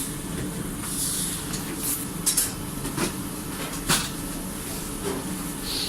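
Fast-food restaurant ambience: a steady hum with a few sharp clatters and clicks of things being handled behind the counter, the loudest a quick pair a little over two seconds in and another near four seconds.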